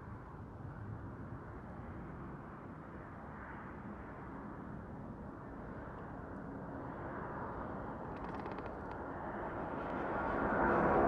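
Jet airliner taking off, its engine noise building steadily and swelling strongly near the end as the aircraft comes closer.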